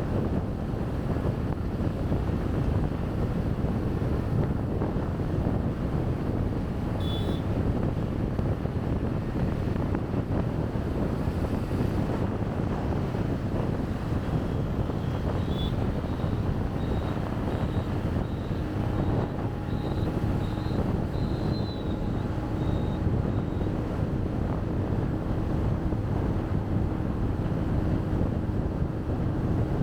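Wind rushing over the microphone of a camera worn on a moving motorbike, over a steady rumble of road traffic. A brief high beep comes about a quarter of the way in, and a string of short high beeps runs through the middle.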